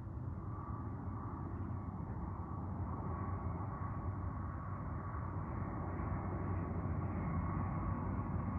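Airbus A320 jet engines on approach, a steady low rumble with a thin whine on top, slowly growing louder.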